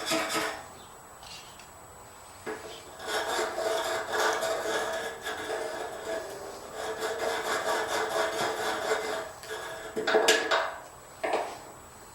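Repeated hand scraping and rubbing in long stretches, with a couple of sharp knocks near the end.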